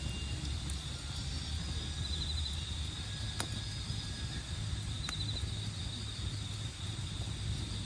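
Wood campfire burning with two sharp pops, over crickets trilling in a steady high band that breaks into short rapid chirping runs, and a low steady rumble.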